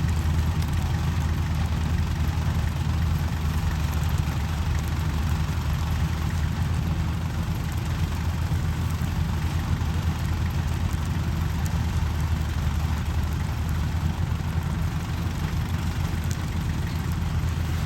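Diesel engine of a Kubota 105 cab combine harvester running steadily, with a deep, even hum.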